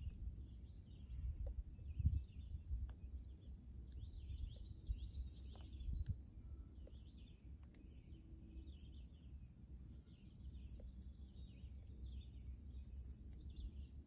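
Small birds chirping in repeated short phrases of quick high notes, over a low rumble with a couple of soft low bumps.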